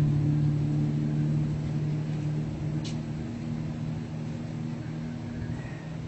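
A motor vehicle's engine running with a steady low hum, slowly fading over several seconds. A single short click comes about halfway through.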